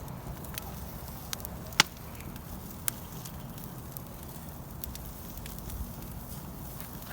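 Wood campfire burning with a steady low rush and scattered sharp pops and crackles. The loudest pop comes about two seconds in.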